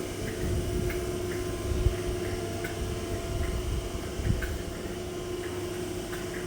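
Steady hum of a stationary electric train, its equipment and ventilation running with one constant tone over a low rumble. Faint irregular ticks come and go.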